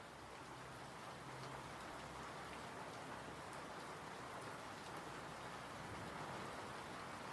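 Steady rain falling, an even patter with scattered drop ticks, swelling up over the first couple of seconds and then holding level.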